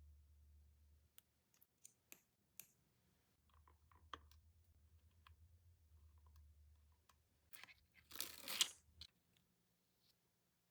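Quiet clicks and taps from handling nail-art tools and a mold for making butterfly parts, over a faint low hum. A louder rustling scrape about eight seconds in lasts around a second and a half.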